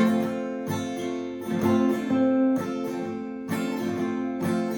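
Acoustic guitar strumming steady chords, a sung-along song's accompaniment played on its own between verses.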